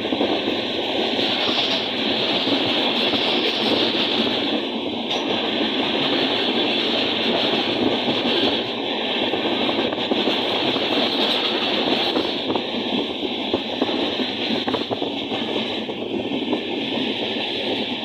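Passenger train running at speed, heard from inside a carriage: a steady rush of wheel-on-rail noise with occasional clicks.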